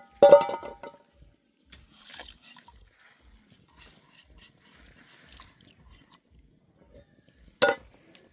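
A dog barks: one loud bark just after the start and a shorter one near the end, with faint scattered crackles and rustling in between.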